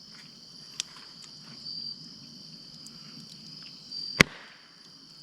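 Insects trilling steadily outdoors, with a short higher chirp every two seconds or so. A sharp click about four seconds in, and a fainter one before the first second.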